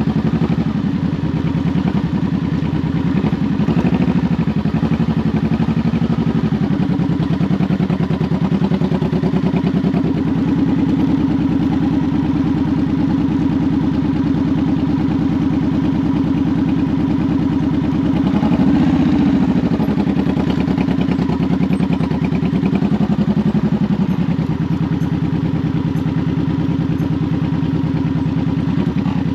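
Honda VTX 1800's V-twin engine running steadily on the move, its note rising and falling gently, with one brief rev up and back down about two-thirds of the way through.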